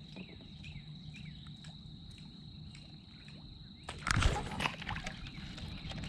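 Steady high insect drone with small bird chirps, then about four seconds in a loud splash in the water followed by a few smaller splashes.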